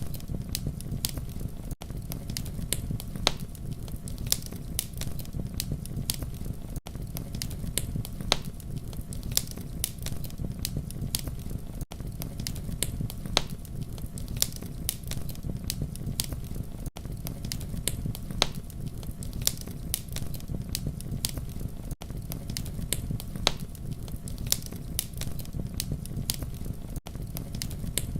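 Wood fire crackling: a steady low rumble of flames with frequent sharp pops and snaps. The sound is a repeating loop, with a brief dip in level about every five seconds.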